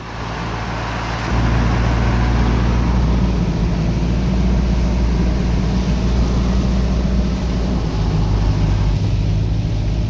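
Steady road noise heard from inside a moving car: low engine and tyre rumble with a hiss of spray, getting louder about a second in and then holding.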